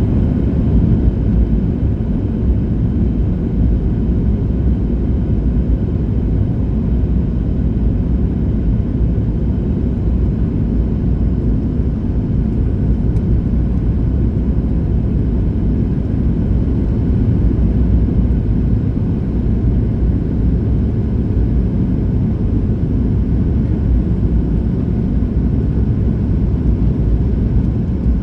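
Steady low rumble inside the cabin of a Boeing 737-800 on approach, its CFM56-7B engines and airflow heard from a rear window seat.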